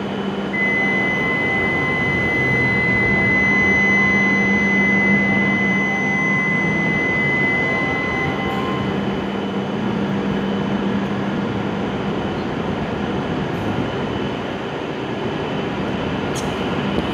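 E7-series Shinkansen train standing at the platform, its equipment humming steadily. A single steady high electronic tone sounds for about eight seconds, starting just after the beginning.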